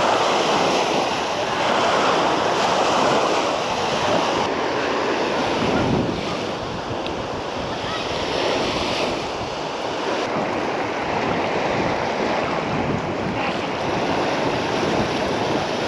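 Sea waves washing onto the shore, with wind buffeting the microphone; the surf noise swells and eases gently.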